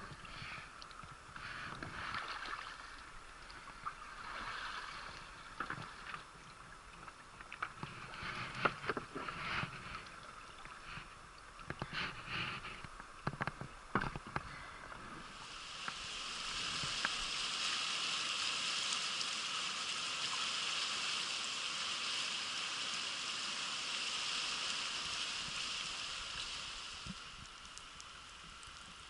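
River water splashing and sloshing in irregular bursts. About halfway in, a steady rushing hiss of water takes over for around ten seconds, then fades.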